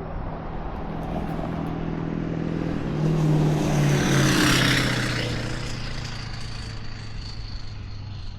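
A road vehicle driving past: engine and tyre noise build to a peak about four seconds in, the pitch drops as it passes, then it fades.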